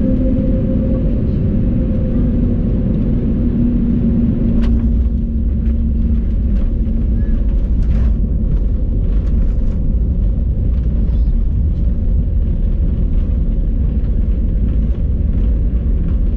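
Airbus A320neo cabin noise during landing: a steady rumble of engines and airflow, with a steady tone that fades away over the first few seconds. About four and a half seconds in there is a sharp knock, then scattered rattles and bumps through the cabin.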